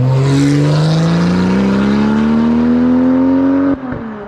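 Porsche 996 911 Turbo's twin-turbo flat-six accelerating through an aftermarket titanium X-pipe exhaust, loud, its note rising steadily for nearly four seconds, then dropping abruptly at a gear change near the end.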